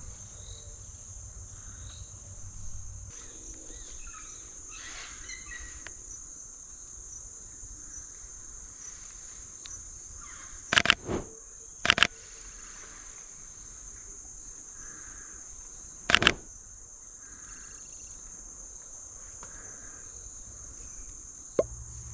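Steady high-pitched drone of insects, crickets or cicadas, with a few faint bird chirps. Over it come a few sharp clicks of a camera shutter firing: a pair about halfway through, another soon after, and one more a few seconds later. The clicks are the loudest sounds.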